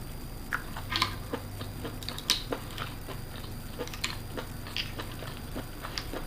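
Close-up eating sounds: chewing with irregular wet mouth smacks and clicks while eating manila clams and baby octopus, with a couple of sharper clicks about a second and two seconds in.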